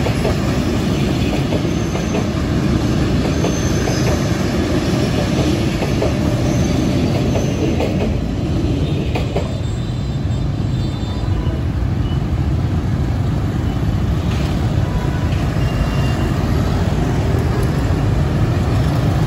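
Diesel-hauled freight train rolling past on the track, a loud steady rumble of wagons and wheels on rail, with a few faint, brief, high wheel squeals.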